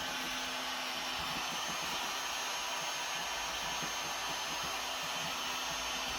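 Electric heat gun running steadily, a continuous airy hiss with a faint high whine, as it heats the glue behind a car headliner.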